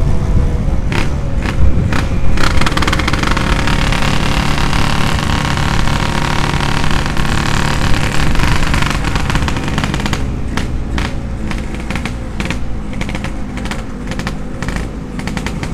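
Yamaha RX-King's single-cylinder two-stroke engine running through an aftermarket 'setengah dewa' racing exhaust while the motorcycle is ridden. The engine note eases off gradually over the second half.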